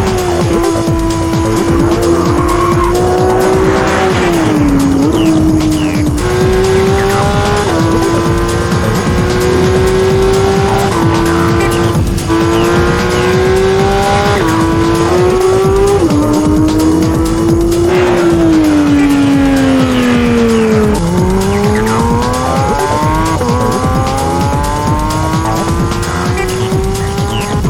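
Porsche 911 GT3's 4.0-litre naturally aspirated flat-six at high revs, its pitch climbing and then dropping sharply at each of a string of upshifts. Over a few seconds past the middle it winds down steadily as the car slows, then climbs again hard near the end.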